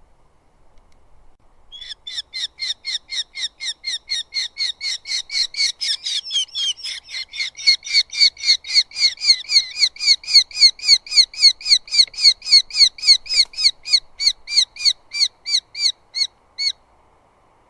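Eurasian hobby calling at the nest: a long, rapid series of short, sharp, downslurred call notes, about three to four a second. The calling starts about two seconds in, grows louder, and stops suddenly near the end.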